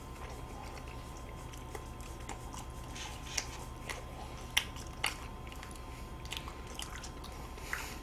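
Close-up biting and chewing of Cookieo ice cream sandwiches, soft chocolate cookie wafers around ice cream. Scattered small crunches and wet mouth clicks come over a steady low hum, the sharpest of them a few seconds in.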